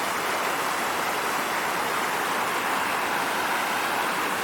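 Waterfall splashing steadily into a pool, a continuous rushing of falling water.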